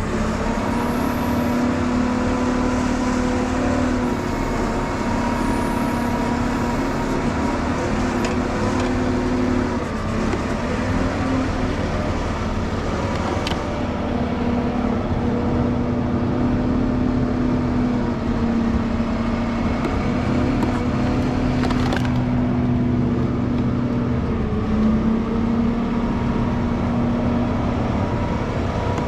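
Tire service truck's engine running steadily, powering the hydraulic tire manipulator as it works a combine tire off the rim. The hum shifts in pitch a few times as the hydraulic load changes, with two sharp clicks, the second about two-thirds through.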